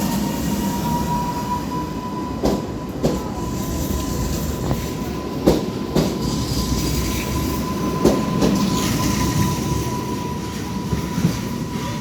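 A train running along the track, with a steady high whine held throughout over a low rumble. Sharp knocks come every few seconds, several in pairs about half a second apart, as wheels cross rail joints.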